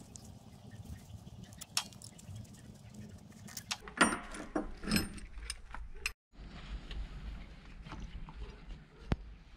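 Hand tools and metal engine parts clinking and knocking during the teardown of a Yamaha YZF R1 motorcycle engine, with a louder bout of metallic clatter about four seconds in. The sound cuts out for a moment just after six seconds, then scattered clicks go on.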